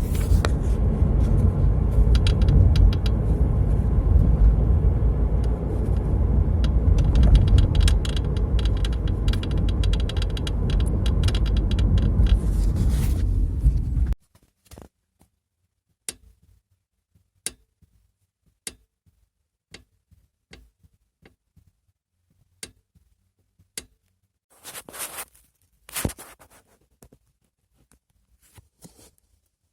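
Toyota RAV4 front seat knocking and rattling in quick irregular clicks over the car's road rumble while driving. About halfway through, the rumble cuts off suddenly and only scattered separate clicks and knocks remain.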